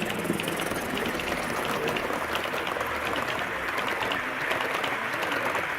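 Hornby Live Steam OO gauge A4 locomotive running with its coaches: a steady steam hiss under a rapid, irregular patter of small clicks from the wheels on the track.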